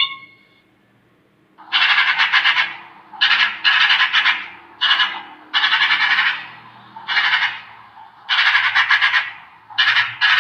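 An animal's rasping, rapidly pulsed call repeated about eight times, each call under a second long, starting after a short pause.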